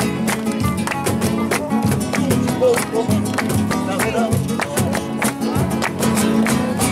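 Acoustic guitar strummed in a fast, even flamenco-rumba rhythm with sharp percussive strokes, played between sung verses.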